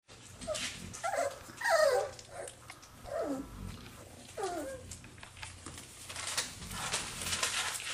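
Mastiff puppies playing: about five short high whines and yips, each falling in pitch, in the first few seconds. These are followed by a run of clicks and rustles.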